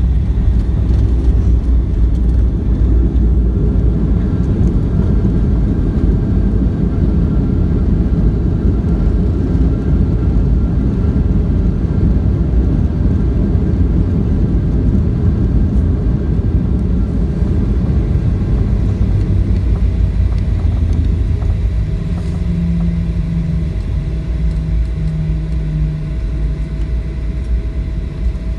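Loud, steady low rumble of a Boeing 737-800's cabin noise during the landing, easing slightly about twenty seconds in, when a steady low hum joins for a few seconds.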